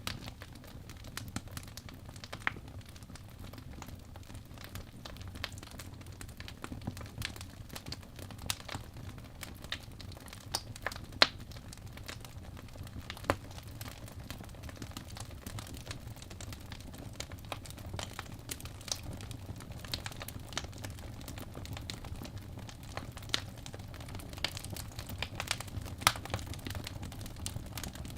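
Wood fire burning in a fireplace: a low steady rumble of the flames with irregular crackles and sharp pops from the logs, a few of them louder.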